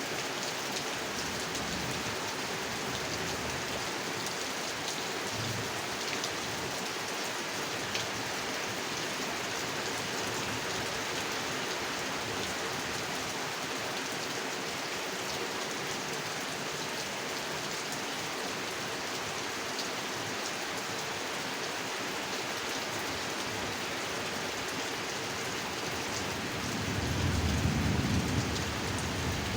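Steady heavy rain falling on a pond, with scattered drops ticking, and a low rumble of thunder swelling near the end.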